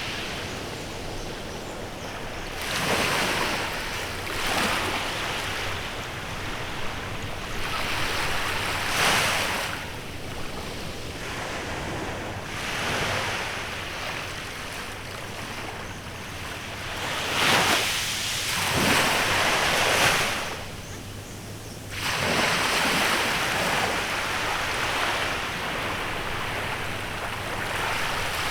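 Small waves breaking and washing up a beach, each one swelling and then receding every few seconds, with a steady hiss of surf between.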